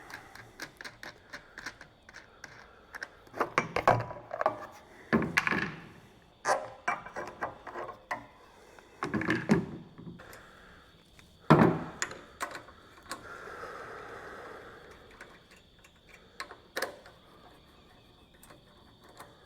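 Scattered knocks, clicks and clatter of tools and parts being handled on a small engine, with a few sharper knocks and a brief scraping rustle about two-thirds of the way through. The engine is not running.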